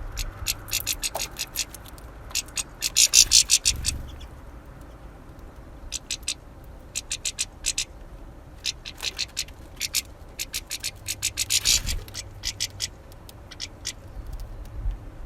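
Small finches at a bird feeder: quick runs of sharp, high clicks and ticks in bursts, with short pauses between them. A faint low hum runs underneath.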